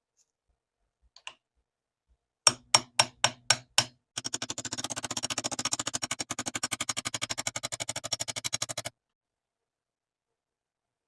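Sharp tapping strikes: six loud taps about four a second, then a fast, even run of lighter taps, about ten a second, for nearly five seconds that stops suddenly.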